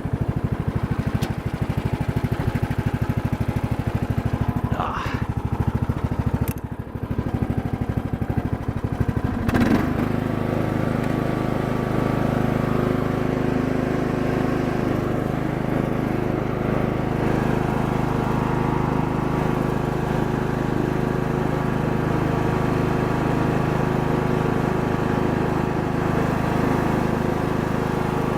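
Wizard Pro lawn tractor's small engine idling with a pulsing beat, then speeding up about ten seconds in and running steadily at a higher speed.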